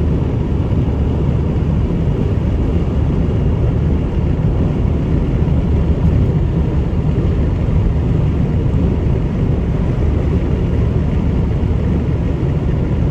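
Steady road noise of a car cruising at highway speed, heard from inside the cabin: a constant low rumble with tyre hiss above it.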